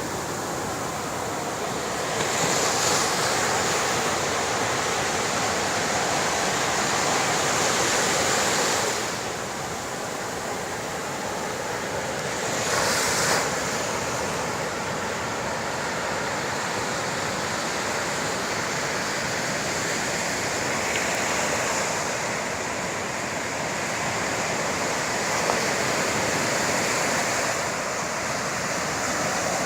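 Sea surf washing in a steady rush of noise, swelling louder a few times as waves break.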